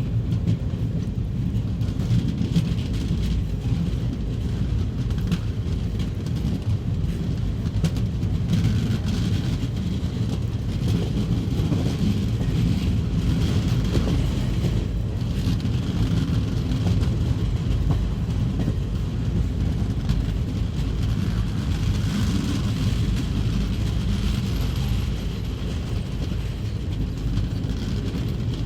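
Express passenger train pulling into a station platform, a steady low rumble with faint clicks of wheels on the rails.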